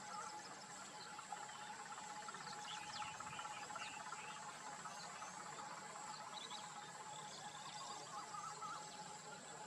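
Steady chorus of insects and frogs in wild surroundings, two unbroken high drones, with a few short chirps scattered through it.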